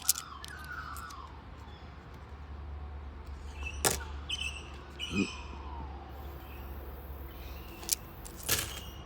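Australian $2 coins clicking and clacking as they are handled, with about five sharp clacks, two of them near the end. Birds chirp and give falling whistled calls throughout.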